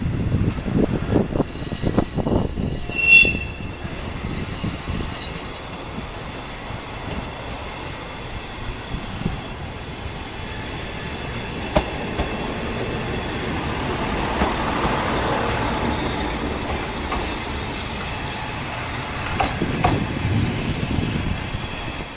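Hisatsu Orange Railway diesel railcar pulling in and running slowly past, a low engine rumble with wheels on the rails. A brief high squeal comes about three seconds in, and the running noise swells again about two-thirds of the way through.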